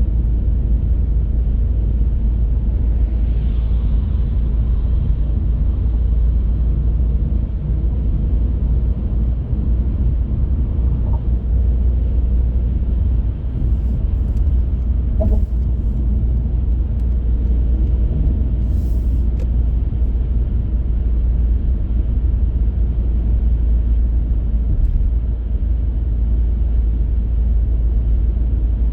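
Car driving along the road: a steady low rumble of road and engine noise, with a few faint clicks in the middle.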